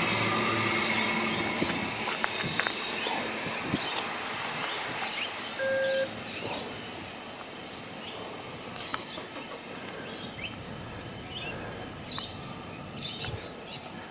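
Steady high-pitched drone of insects, with scattered bird chirps, while the rumble of a passing train fades away in the first couple of seconds. A short beep sounds once about six seconds in.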